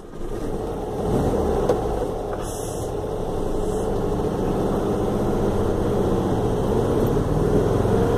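1965 Volkswagen Beetle 1200's air-cooled flat-four engine running steadily as the car pulls away and drives, heard from inside the cabin; it gets louder about a second in.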